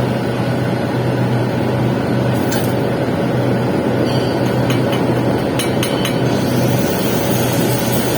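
Steady crackle of an arc during a stick-welding capping pass on pipe, over a low, even hum.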